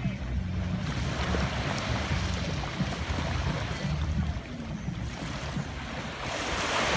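Ocean waves washing on a shore, a wave surging up loudest near the end, over a steady low rumble.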